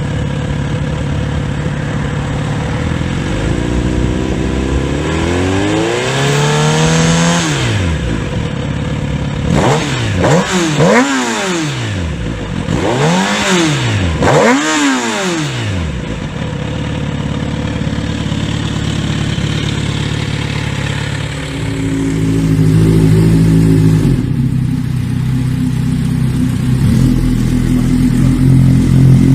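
Kawasaki Z900RS inline-four running through an aftermarket exhaust. It idles, is revved up slowly and let fall, then blipped sharply twice and settles back to idle. About two-thirds of the way through the idle takes on a deeper, more uneven note.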